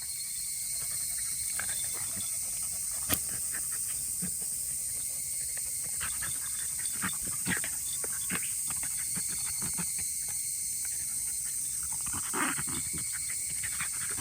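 Insects droning steadily at a high pitch, with scattered short clicks and rustles and one sharper click about three seconds in.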